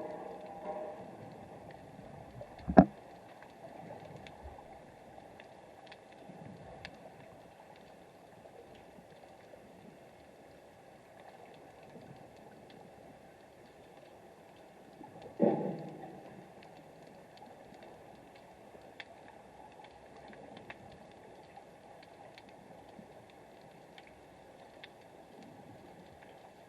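Underwater ambience picked up by a submerged camera: a steady low hiss with scattered faint clicks, a sharp knock about three seconds in and a heavier dull thud with a brief rumbling tail around the middle.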